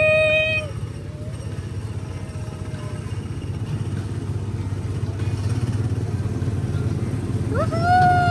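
Small gasoline engine of a speedway ride car running steadily under way, a low, fast-pulsing rumble. A high-pitched voice calls out in a long held note at the very start and again, rising and falling, near the end.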